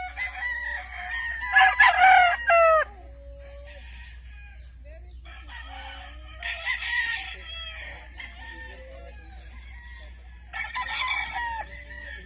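Several roosters crowing, calls overlapping, the loudest crow about two seconds in and fainter crows around the middle and near the end, with some clucking between.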